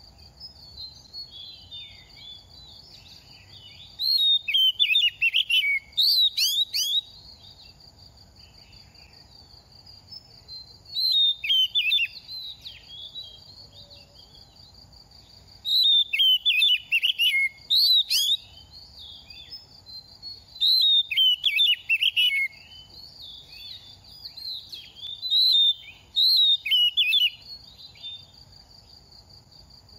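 Oriental magpie-robin singing in five loud bursts of rapid, varied whistled notes, each burst lasting one to three seconds with short pauses between.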